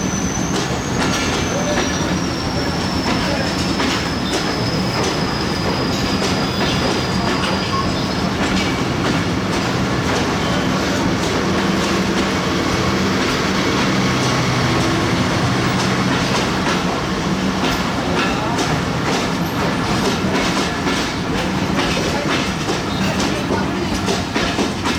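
Train coaches rolling past, wheels clattering over the rail joints, with a thin high wheel squeal that slowly drops in pitch and fades out about a third of the way through.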